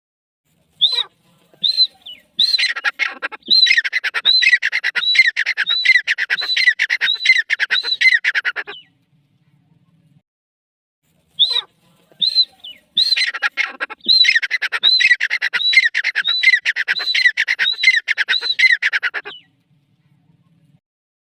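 Grey francolin calling: two bouts of loud, harsh repeated calls. Each bout opens with a few spaced notes, then runs into a rapid, regular series of about two phrases a second for several seconds before stopping.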